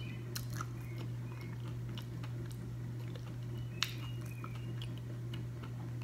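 A person chewing crispy breaded fried avocado close to the microphone: scattered small wet mouth clicks, with one sharper click a little under four seconds in. A steady low hum runs underneath.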